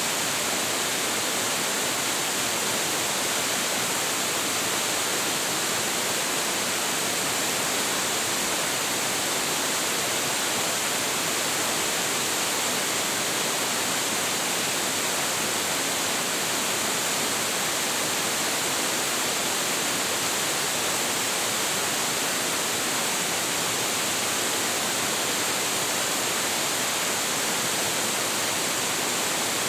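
Large waterfall with a heavy flow, water crashing down in a steady, unbroken rush with a strong hiss high up.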